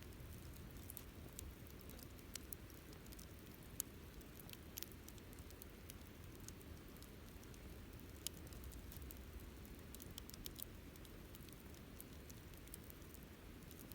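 Wood campfire crackling: scattered sharp pops and ticks over a faint low rumble, with two louder pops about four and eight seconds in.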